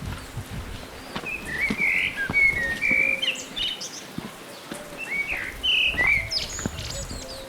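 A songbird singing two short phrases of quick chirping notes, a pause between them, over scattered sharp clicks.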